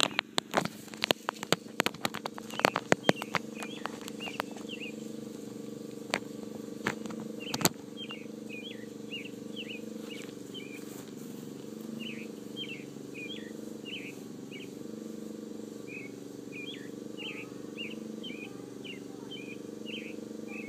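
Knocks and rustles of a phone being handled and set down in grass during the first several seconds, then a bird chirping in a long run of short notes, two or three a second, over a steady low hum.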